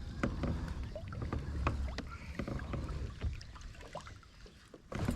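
Scattered light knocks and clicks of gear being handled in a kayak, over a low rumble of wind on the microphone.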